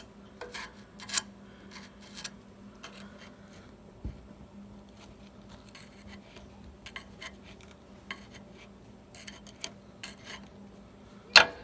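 Scattered light scrapes and clicks, like something being handled or scraped by hand, over a faint steady hum, with one sharp, loud click near the end.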